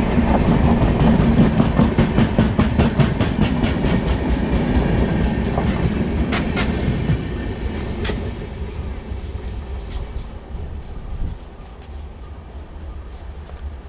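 Humsafar Express passenger train running past, its wheels clattering in quick, even clicks over the rail joints. The sound fades steadily through the second half as the train moves away.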